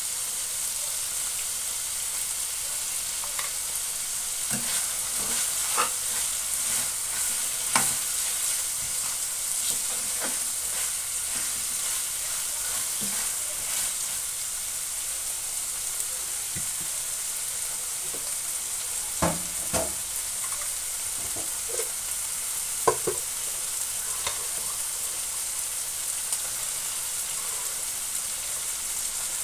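Salted mustard greens and tiny dried shrimp in chili paste sizzling steadily in a frying pan, with a metal spatula scraping and knocking against the pan as the food is stirred; the knocks come every few seconds, a handful sharper than the rest.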